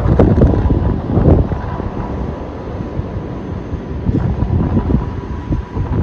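Strong sandstorm wind buffeting the microphone in loud, gusty rumbles, easing a little mid-way and picking up again near the end.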